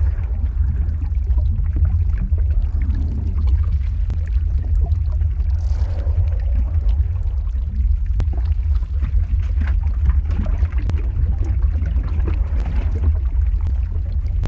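Lava-flow ambience sound effect: a steady deep rumble with faint scattered crackles over it.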